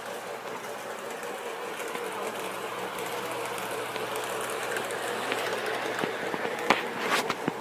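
Lionel model train running on a track layout: a steady whirr from its electric motor and wheels on the rails, growing slightly louder, with one sharp click near the end.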